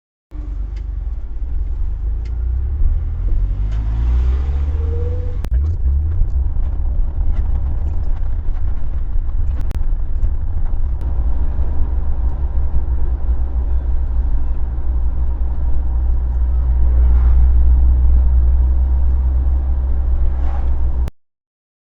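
A car driving, heard from inside the cabin: a steady low rumble of engine and road noise, with the engine rising in pitch as it accelerates over the first five seconds.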